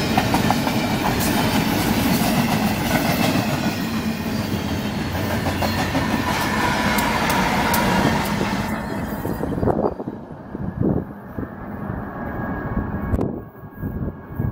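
Double-stack intermodal freight train rolling past close by: a loud, steady rumble and rattle of the cars, with wheel clicks over the rail joints and a faint squeal. About ten seconds in the sound turns abruptly duller and quieter, and it changes abruptly again near the end.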